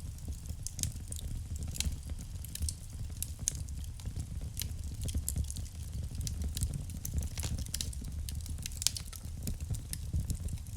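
Wood fire burning in a fireplace: a steady low rumble of the flames with many irregular, sharp crackles and pops of burning wood.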